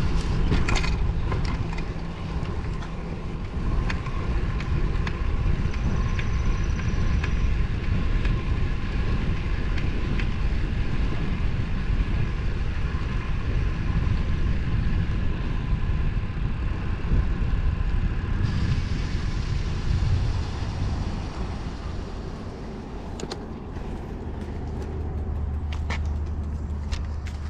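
Wind rushing over the microphone while riding a road bike at speed, a steady low rumble with scattered light clicks. It eases about twenty seconds in, and a steady low drone joins near the end.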